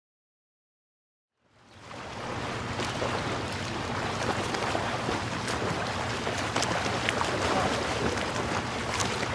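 Small waves washing onto a sandy beach: a steady hiss of surf that fades in after about a second and a half of silence.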